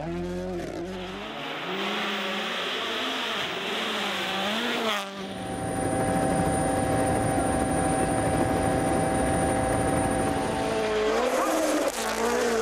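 Rally car engines at full effort. First an engine revs up and down through the gears; then, after a cut, another holds a steady high note for several seconds, climbing in pitch again near the end.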